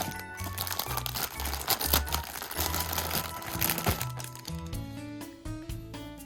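Parcel packaging crinkling and crackling as it is unwrapped, over background music; the crinkling dies away about four seconds in, leaving the music.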